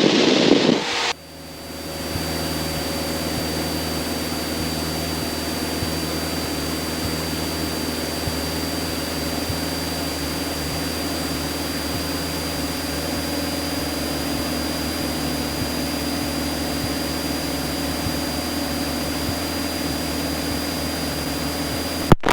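Light aircraft's engine and propeller droning steadily in the cockpit during circuit flying. A loud rush of noise fills the first second, and there is a sharp click near the end.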